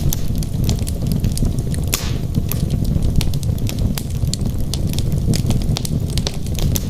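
Wood fire burning in a fireplace: logs crackling with many irregular sharp pops over a steady low rumble of the flames, and a brief hiss about two seconds in.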